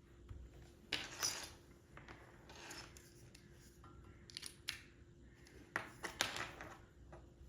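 Several short bursts of rustling and scraping with sharp clicks, as of small objects being handled.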